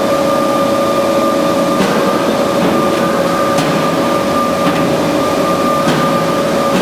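Band saw running steadily: a constant whine over a noisy rush, with a few faint ticks.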